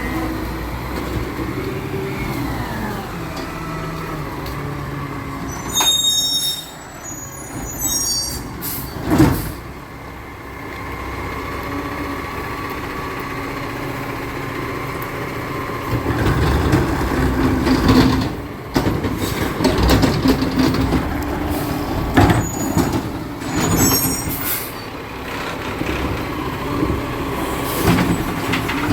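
Recycling truck's diesel engine running and slowing, with a brief high brake squeal and air-brake sounds. From about halfway the engine runs louder, with repeated metallic clanks.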